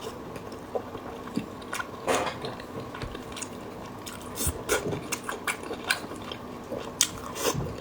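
Close-miked eating of fatty braised pork belly: irregular wet mouth smacks and chewing clicks, a few to the second.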